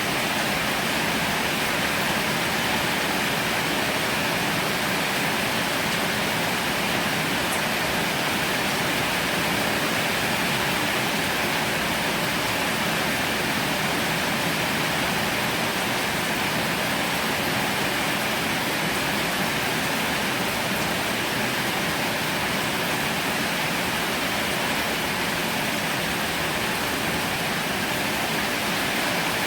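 Heavy rain falling steadily, a dense even hiss that holds at one level throughout.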